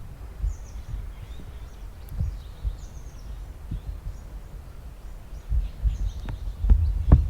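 Low rumbling background noise with faint, repeated bird chirps above it, and a few sharp knocks near the end.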